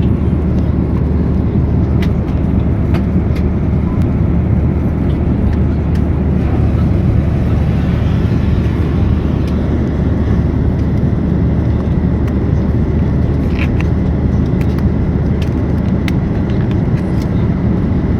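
Airliner cabin noise in flight: a steady, loud, low rumble of engines and airflow, with a few faint clicks on top.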